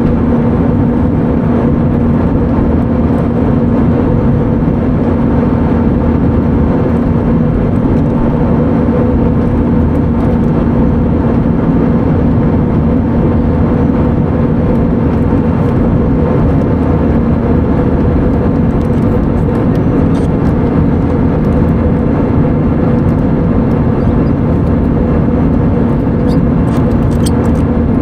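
Airbus A320neo in flight heard from the cabin: a steady roar of engines and airflow with a constant low hum.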